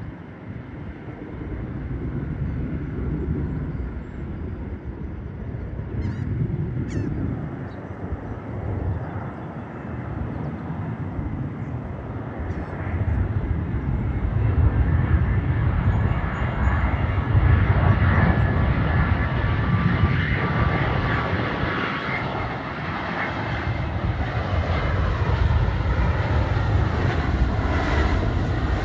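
Jet airliner engine noise from arriving airliners, swelling about halfway through and staying loud as a Boeing 787-8 Dreamliner comes in to land.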